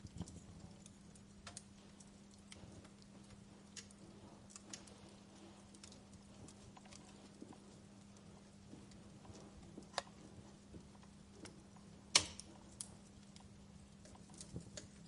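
Wood fire crackling: scattered sharp pops and snaps, the loudest about twelve seconds in, over a faint steady low hum.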